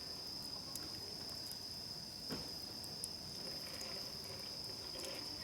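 Insects chirring in a steady, unbroken high tone, with a sharp click a little over two seconds in and a fainter one soon after.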